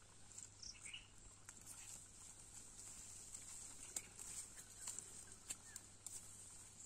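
Faint outdoor ambience: a few soft bird chirps over a steady high hiss, with scattered light clicks and rustles.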